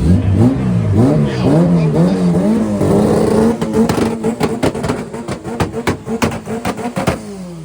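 Car engine revved in quick blips, then held on a two-step launch limiter, which fires a rapid, uneven string of sharp exhaust pops and bangs for about four seconds; the revs then drop away near the end.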